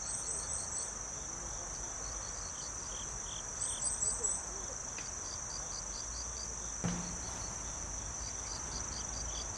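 Night insects chirping: a steady high-pitched trill with rows of short repeated chirps over it, starting and stopping abruptly.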